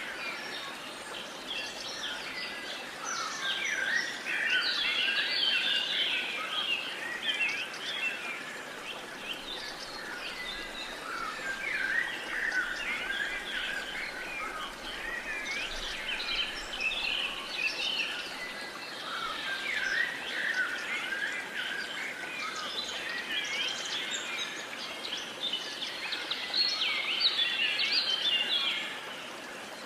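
Several songbirds chirping and singing at once in a dense chorus over a steady outdoor hiss, swelling and easing in waves.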